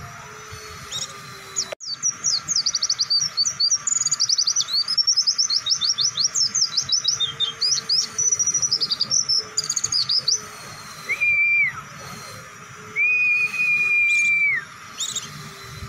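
Pleci (white-eye) songbird singing a long, fast run of high chirps for about eight seconds. Then come two drawn-out level whistles, the second longer, each dropping off at its end.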